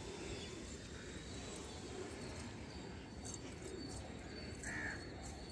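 Birds calling faintly over a quiet outdoor background: a few low calls scattered through, and one short higher call about four and a half seconds in.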